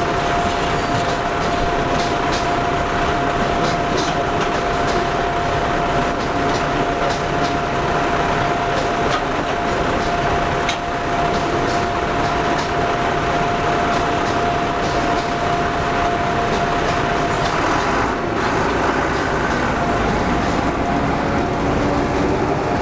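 Chinese freight train rolling past: a steady loud rumble of wheels on rails with scattered clicks, and a steady high whine that fades out towards the end.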